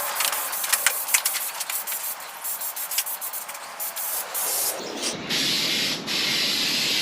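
Aerosol spray-paint can: first rapid clicking and rattling, typical of the mixing ball as the can is shaken, then two steady hissing sprays over the last two seconds as a coat of paint goes on.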